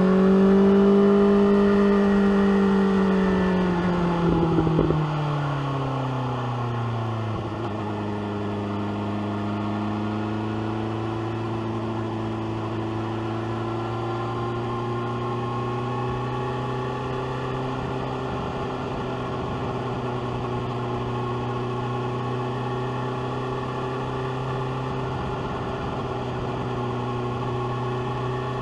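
BMW S1000R's inline-four engine through its SC-Project exhaust: the revs hold high, then fall away over about five seconds as the rider rolls off the throttle, with a few crackles from the exhaust partway down. It then settles into a steady, lower note while cruising.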